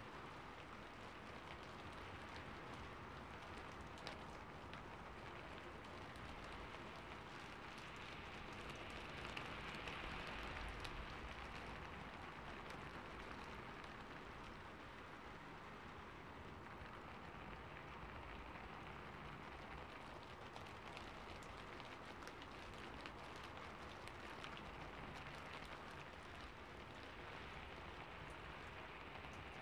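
Ambience recording of steady rain falling on a rooftop: a soft, even hiss dotted with faint drop ticks, swelling slightly about ten seconds in.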